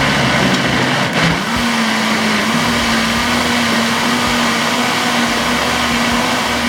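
Countertop blender running, mixing cake batter with a loud steady whir; the motor's pitch rises about a second and a half in, then holds.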